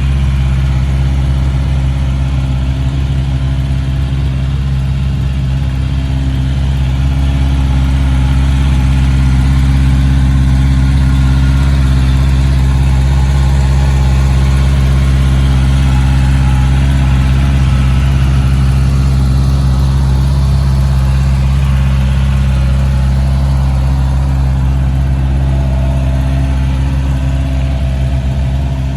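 Honda CBR650R's 649 cc inline-four engine idling steadily.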